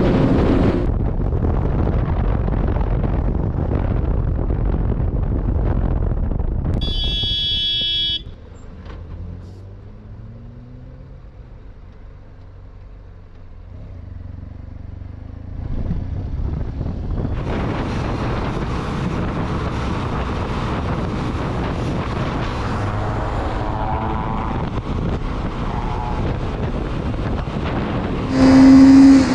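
Motorcycle riding noise: engine and road noise with wind on the microphone. A vehicle horn honks briefly about seven seconds in. A quieter stretch follows with an engine revving low, then another horn blast near the end.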